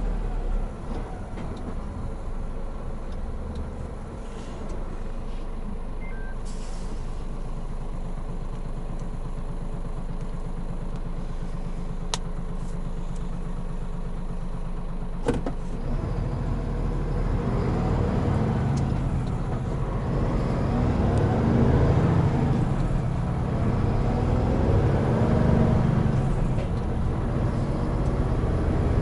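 Hino Profia heavy truck's diesel engine running low and steady for about half the time, with a single sharp click near the middle. The engine then gets louder and climbs in pitch again and again as the truck accelerates through the gears.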